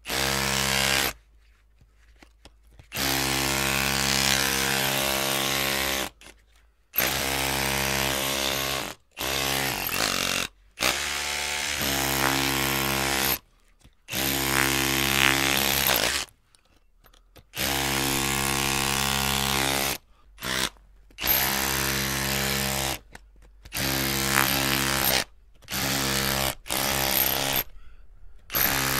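Electric drill motor running in short bursts of one to three seconds, switched on and off about a dozen times with brief pauses between.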